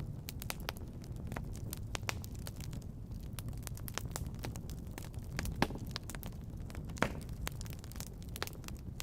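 Fire crackling in a fireplace: frequent sharp pops and snaps of varying strength over a steady low noise, with two louder pops about five and a half and seven seconds in.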